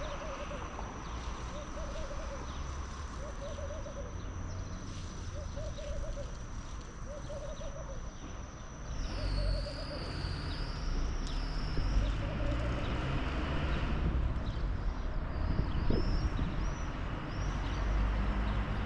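A bird's low hooting call, a short run of notes repeated about once a second, stopping about halfway through; higher, thinner bird calls follow over a low rumble.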